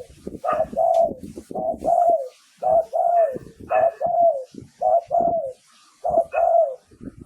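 Spotted dove cooing: a run of about six two-note coos, the second note longer and falling at its end, roughly one a second, with a pause before the last phrase. This is the decoy call that keepers play to lure wild spotted doves.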